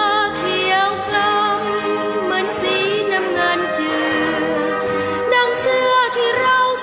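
Music with several voices singing together, sustained and slow-moving.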